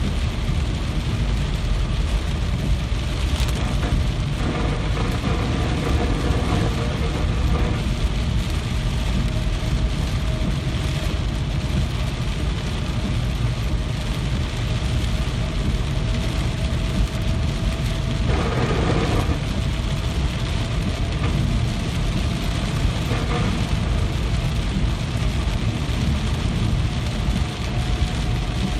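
Steady rain, a dense even hiss with a heavy low rumble underneath.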